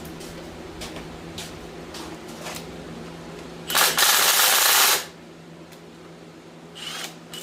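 Light metal clicks of bolts and tools being handled. About halfway through comes a loud, even hiss lasting just over a second, which cuts off abruptly.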